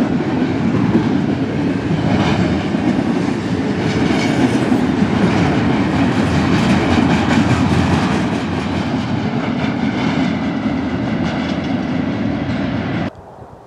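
Double-stack intermodal freight train's container well cars rolling past close by: a loud, steady rumble of steel wheels on rail. The sound cuts off suddenly near the end.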